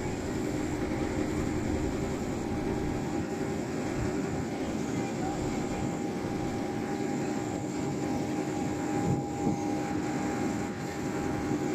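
Machinery running steadily, a constant drone with a few held tones, a little louder for a moment about nine seconds in.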